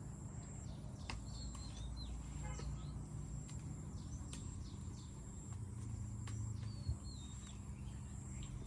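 Outdoor ambience: small birds chirping in short calls over a steady high-pitched insect buzz, with a low rumble underneath and a single sharp tick about seven seconds in.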